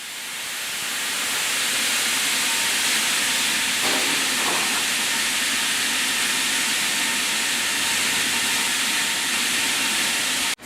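Steady, loud rushing hiss of sawmill machinery running, fading in over the first couple of seconds and cutting off abruptly near the end.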